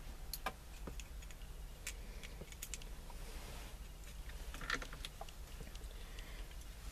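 Scattered light clicks and taps at irregular intervals as small parts of a steering column are fitted back together by hand, over a faint steady low hum.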